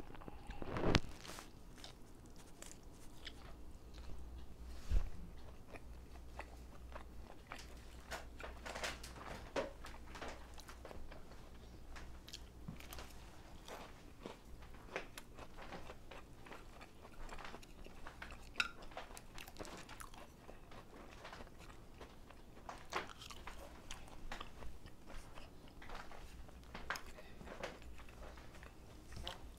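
A person chewing and crunching food, with many short, sharp clicks scattered throughout.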